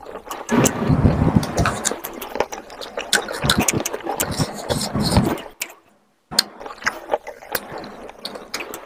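Close-miked eating sounds: wet chewing, smacking and sticky clicks of a mouth working on spicy chicken curry and rice, with squelching as curry-coated fingers work in the gravy. The sound drops out to silence for about half a second a little past halfway.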